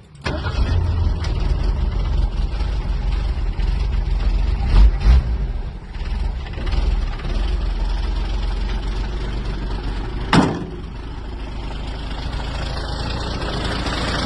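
Old Ford pickup's engine running with a steady low rumble, with an exhaust leak that the owner puts down to a blown exhaust donut gasket. A couple of thumps about five seconds in and a sharp click a little past ten seconds.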